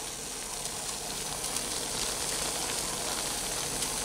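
Pancit bihon rice noodles and vegetables sizzling in a wok on the stove, a steady hiss.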